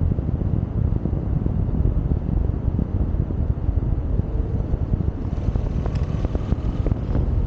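Wind buffeting the microphone while riding a Yamaha XSR700 motorcycle: a steady, heavy low rumble. A few faint ticks come in about five seconds in.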